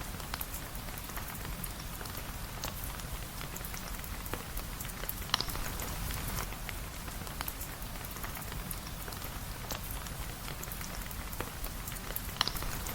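Steady rain pattering on a surface, with many small sharp drip clicks and a low rumble underneath. Two louder drops stand out, about five seconds in and again near the end.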